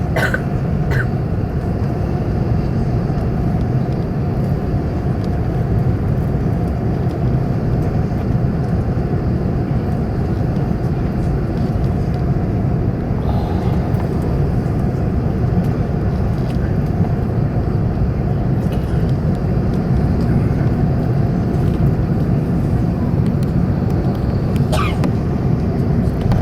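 Steady cabin noise inside an Airbus A380's upper deck as the airliner moves on the ground after landing: an even, deep engine and rolling rumble with a faint steady hum, and a few faint clicks near the start and end.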